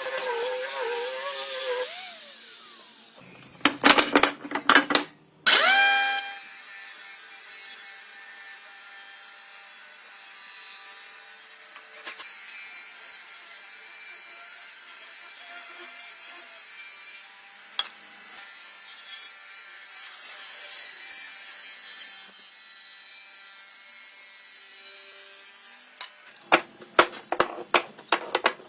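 An electric power tool spins up and works wood with a steady high-pitched hiss of cutting or sanding. Sharp knocks come before it starts, and a quick run of clicks and knocks comes near the end.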